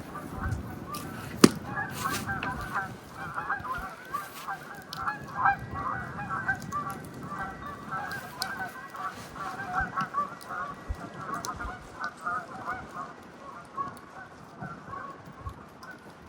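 A flock of geese honking continuously, many calls overlapping, with a few sharp clicks in the first couple of seconds.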